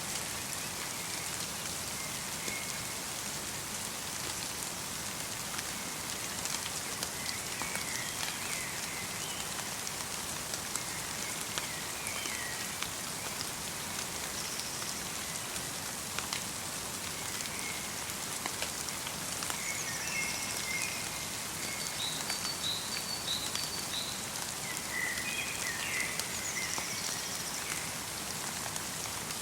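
Steady light rain pattering in a forest, with fine ticks of individual drops. Small birds give short, high chirps now and then, more often in the second half.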